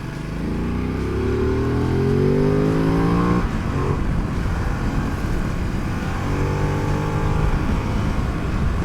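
Ducati Desert X's 937 cc V-twin engine accelerating, its pitch climbing steadily for about three and a half seconds, then dropping off at a gear change. A second, shorter climb follows later on before the engine eases off.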